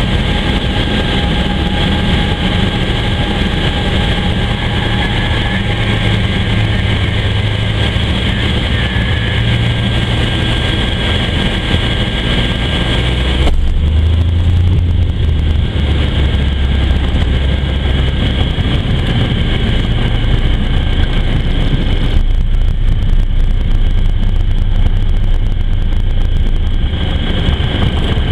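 Cessna 182 piston engine and propeller running with a steady drone. The sound changes abruptly about halfway through and again later on.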